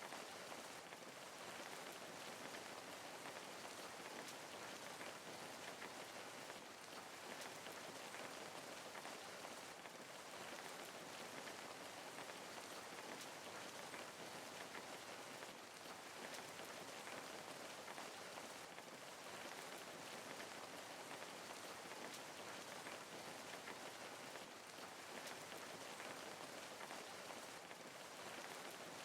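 Steady rain falling, a dense even patter of many fine drops with no thunder or other sounds.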